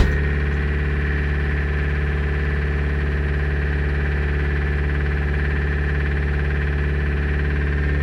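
Toyota HiAce engine idling steadily after a decoking treatment, with an even, unchanging hum. There is a brief click right at the start.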